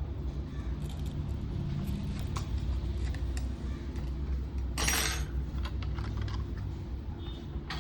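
Small metallic clicks and light rattles of hand tools working on a circuit board while a capacitor is being removed, with a short hissing scrape about five seconds in, over a steady low hum.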